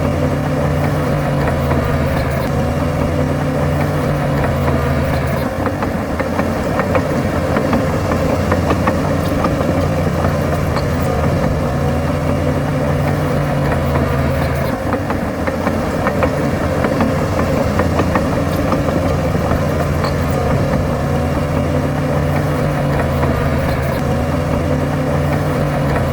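Heavy diesel engine of earthmoving machinery running steadily, its note changing a few times, near five, fifteen and twenty-three seconds in.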